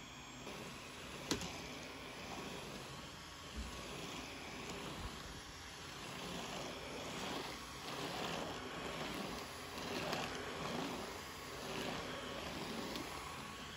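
Household cleaning noises: irregular rubbing and handling sounds that swell and fade, with a sharp click about a second in and a few lighter ticks.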